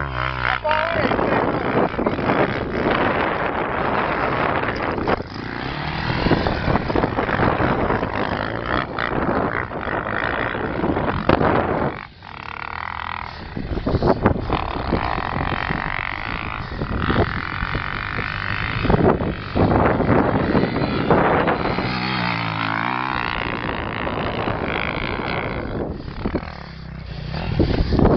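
Motocross bike engine revving up and dropping back again and again, with a brief lull about twelve seconds in.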